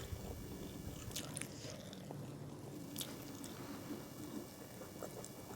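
A person chewing food with quiet, wet mouth sounds and a couple of faint sharp clicks.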